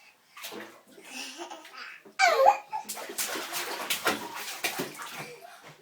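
Young child laughing in the bath: a loud high squeal about two seconds in, then a run of breathy, choppy laughter.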